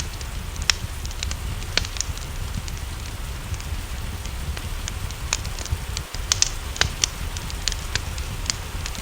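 Wood fire crackling with irregular sharp pops over a steady low rumble, a quicker run of pops a little past the middle, and a faint hiss of rain behind.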